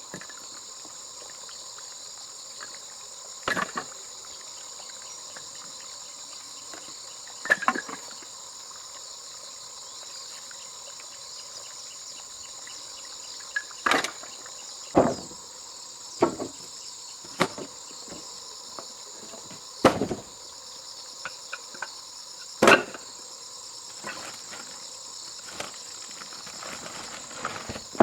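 A steady, high chorus of crickets throughout, with about eight sharp knocks scattered irregularly over it, the loudest around the middle and about two-thirds of the way through.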